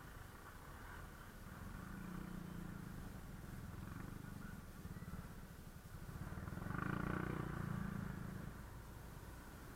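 Scooter engine running low in slow traffic, with a louder swell of engine sound about seven seconds in.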